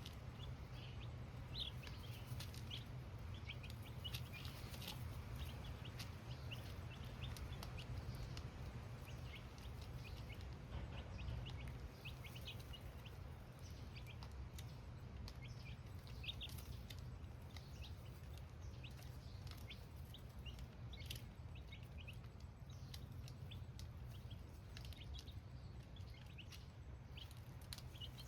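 Young chicks cheeping on and off, many short high peeps scattered throughout, over a steady low hum.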